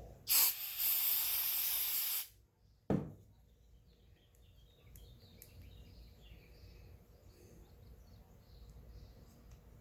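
A blast of compressed air hissing for about two seconds, blown through the carburetor of a Honda trash pump to clear a suspected clogged jet. A short knock follows about a second later.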